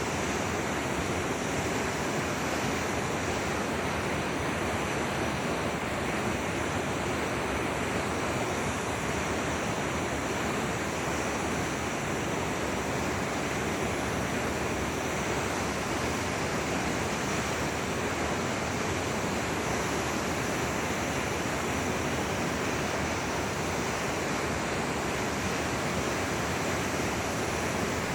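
Forest river or stream flowing: a steady, even rush of water.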